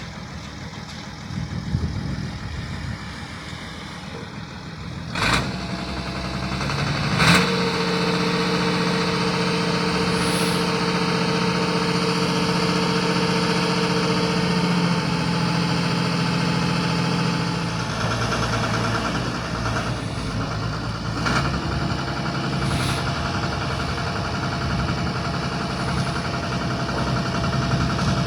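An engine running steadily, with sharp knocks about five and seven seconds in.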